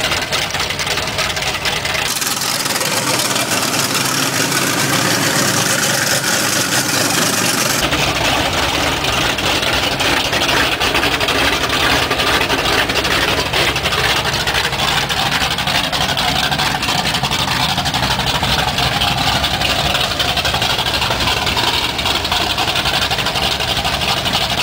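Lifted 4x4 mud trucks' engines running loudly and steadily in a mud bog pit, a dense engine noise with no sharp revs; the low end drops out for a few seconds about two seconds in.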